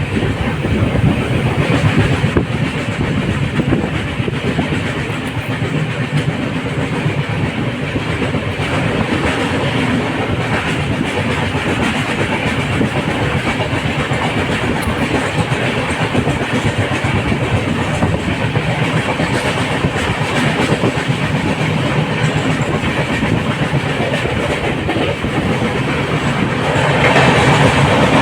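LHB passenger coach running along the track, a steady rumble with wheel clatter over the rails, growing louder near the end.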